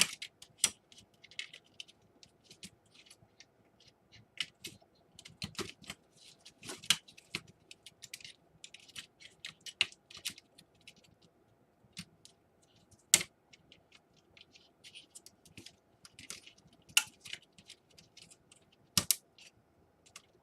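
Irregular plastic clicks and taps of a laptop keyboard being worked and pressed into its case, with a few sharper snaps about thirteen seconds in and near the end.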